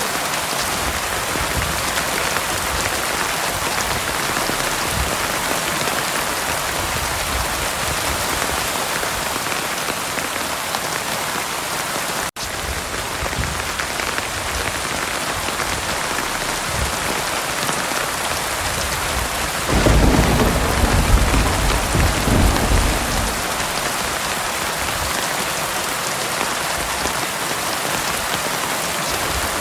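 Heavy rain falling steadily. About two-thirds of the way in, thunder rumbles low and loud for around three seconds. A split-second dropout about 12 seconds in breaks the rain briefly.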